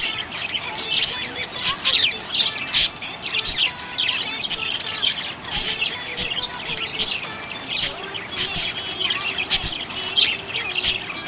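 Budgerigars chirping and chattering: a dense, continuous run of short, sharp high-pitched chirps.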